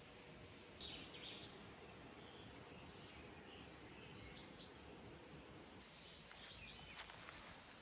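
Faint woodland birdsong: short, high chirps from small songbirds, heard about three times over a low, steady background hiss, with a few soft clicks near the end.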